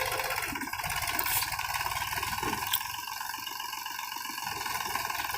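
Mahindra tractor's diesel engine running steadily at low revs, with a brief tick about two and three-quarter seconds in.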